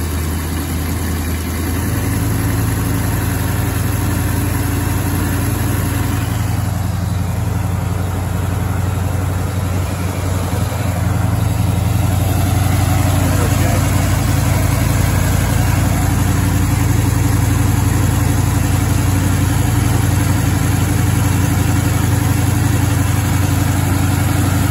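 Freshly built Mopar small-block V8 running at a steady fast idle on its first start, heard through a newly fitted full exhaust. Its speed steps up about two seconds in and again around twelve seconds as the ignition timing is advanced toward 18°, settling near 1,400 rpm.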